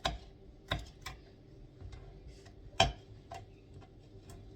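Knife chopping vegetables into smaller pieces: five or six sharp knocks of the blade coming down, at uneven intervals, the loudest about three seconds in.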